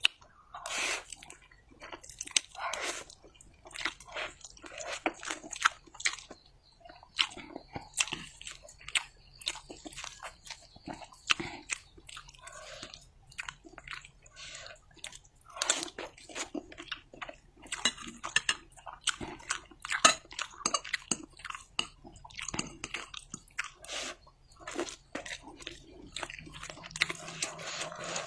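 Close-miked mukbang eating: wet, irregular chewing of fried instant noodles with sharp crunchy bites mixed in.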